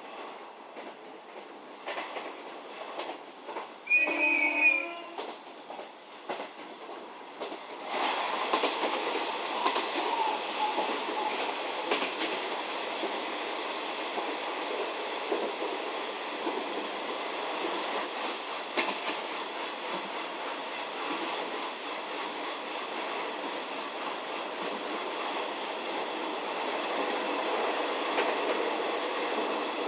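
Onboard running sound of a 711 series electric train, quiet at first with a few clicks and a brief pitched tone about four seconds in. About eight seconds in the running noise grows louder and stays steady, with wheels clicking over the rail joints.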